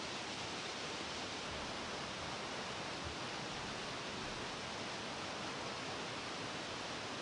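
Steady rushing of nearby waterfalls, an even hiss that does not change.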